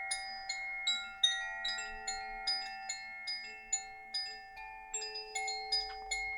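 Metal chimes struck in a gentle, unhurried run, about three notes a second. Each high, bell-like note rings on and overlaps the next.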